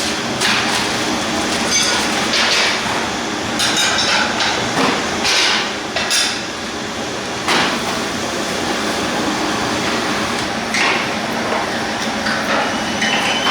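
Irregular knocks and clattering, a few strokes a second or two apart, over a steady background rumble of noise.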